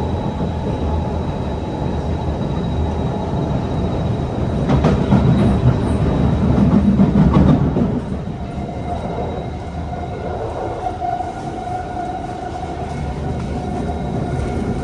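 Kawasaki C151 metro train running, heard from inside the car: steady wheel-and-track rumble that swells louder about five to eight seconds in, then eases and is joined by a steady whine from about eight seconds on.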